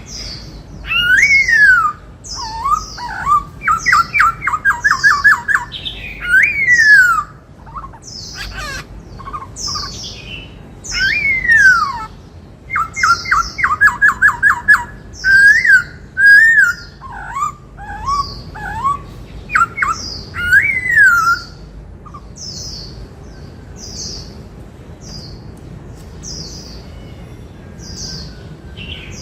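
Black-throated laughingthrush singing: loud whistled notes that slide downward, mixed with fast runs of trilled notes, over short high chirps that repeat throughout. The loud song stops a few seconds before the end, leaving only the high chirps. The song is presented as imitating the 'bắt cô trói cột' call of the Indian cuckoo.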